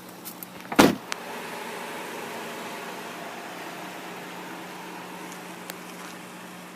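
A sharp clunk about a second in, then the car's power window motor running steadily for about six seconds over a low, steady hum.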